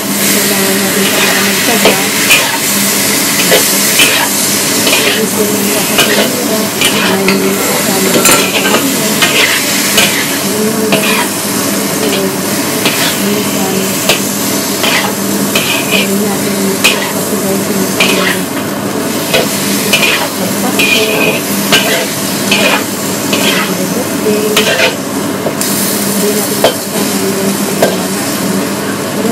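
Food frying and sizzling in a wok over a gas flame as it is stirred, with many short scrapes and knocks of a utensil against the pan. A steady low hum runs underneath.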